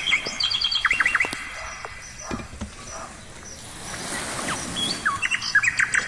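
Small birds chirping in quick series of short high notes: one run in the first second, then a quieter stretch, then another rapid run starting about five seconds in.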